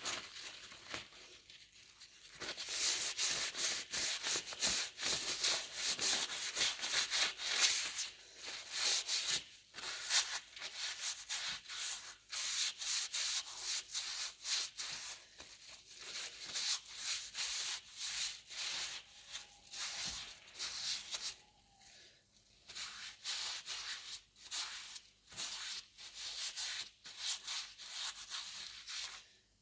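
A Gripclean cleaning wipe scrubbed back and forth in quick rubbing strokes, several a second, in long runs with short pauses.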